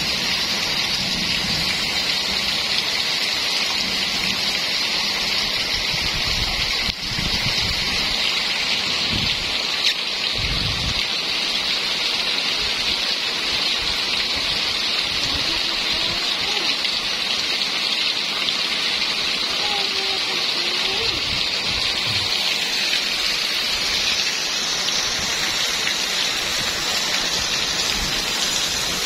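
Steady heavy rain falling and pattering on surfaces, an even hiss, with a couple of brief low rumbles about nine to eleven seconds in.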